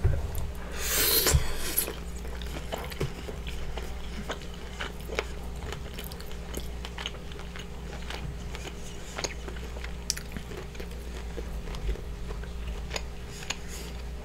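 Close-miked mouth sounds of a person biting into and chewing a piece of sauce-coated seafood: one louder wet burst as the bite is taken about a second in, then steady chewing with small wet clicks and smacks.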